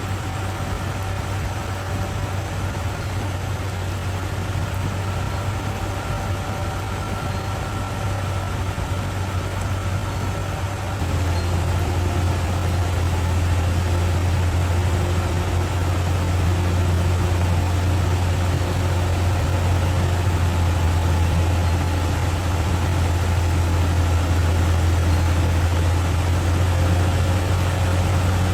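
Bulldozer's diesel engine running with a steady low drone, growing louder about eleven seconds in and holding there.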